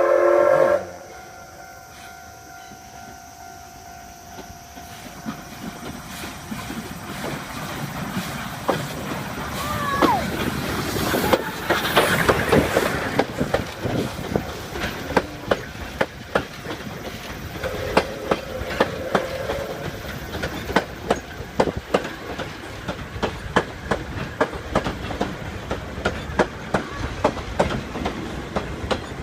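A short, loud whistle blast at the very start, then the Oigawa Railway's Thomas steam train running past, its wheels clicking over the rail joints in a regular rhythm that grows busier through the second half.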